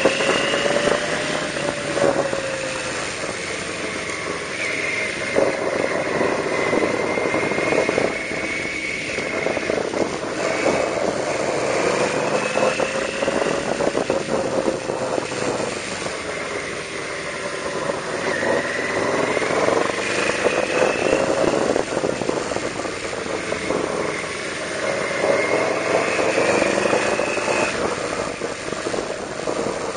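Yamaha V-Max 1200's V4 engine running while the motorcycle is ridden through a series of bends, its pitch rising and falling every few seconds with the throttle, over a steady rush of wind on the microphone.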